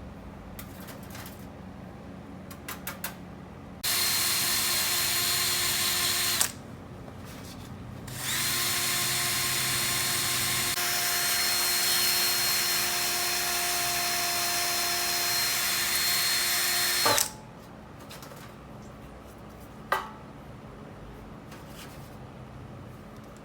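A handheld power tool of the drill kind running twice: a short run of about two and a half seconds, then, after a brief pause, a longer run of about nine seconds. Each is a steady motor whine with a hiss over it that starts and stops abruptly. A sharp click comes a few seconds after the second run.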